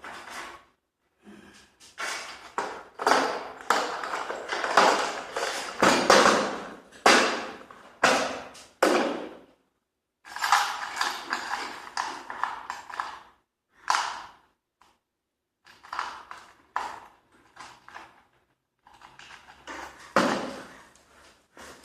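Metal clanking, knocking and rattling in irregular runs of strikes, with a steadier rattle of about three seconds in the middle, from garage door hardware being handled and worked on.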